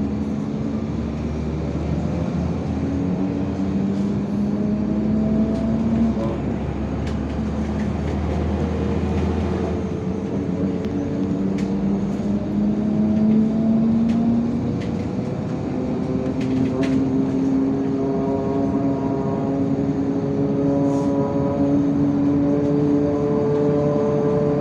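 An IVECO Crossway 13M LE city bus under way, heard on board: the engine runs steadily over road noise. Its pitch rises as the bus gathers speed, drops back at the gear changes about a quarter and two-thirds of the way through, then rises again. Faint rattles sound now and then.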